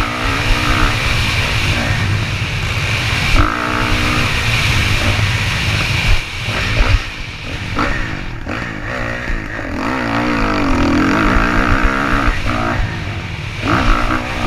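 Motocross dirt bike engine revving, its pitch rising and falling repeatedly as the throttle opens and closes.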